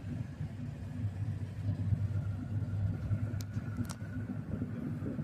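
Steady low drone of a vehicle's engine and road noise heard from inside the cab while driving, with a couple of short clicks a little past halfway.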